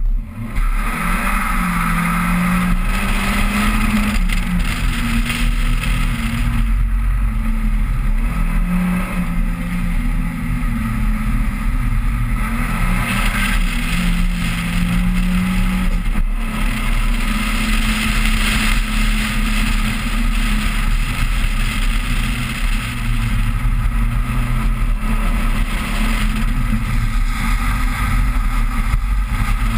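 2000 Toyota Celica GT's 1.8-litre four-cylinder engine launching from the start line and then revving up and down repeatedly as the car is driven hard through an autocross course, with a steady hiss of tyres on wet pavement.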